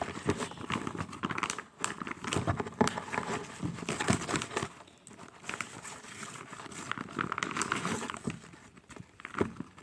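Irregular crinkling and crackling handling noises, with many small clicks, as a squishy toy or its plastic is squeezed and handled.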